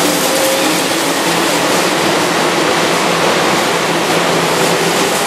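Keihan electric commuter train running along a station platform: a steady loud rush of wheels on rail and car bodies, with faint humming tones from the traction equipment underneath.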